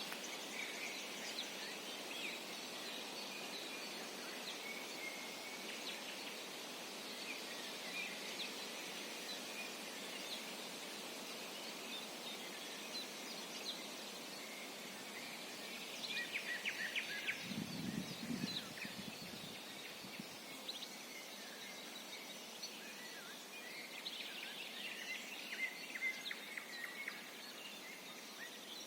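Several songbirds calling and singing with short chirps over a steady background hiss. About two-thirds of the way through the chirps come thick and fast, together with a brief low rumble.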